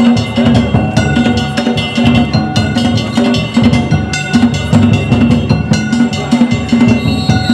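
Danjiri festival float music: taiko drum and small metal gongs (kane) beaten in a fast, steady, repeating rhythm, the gongs ringing over the drum.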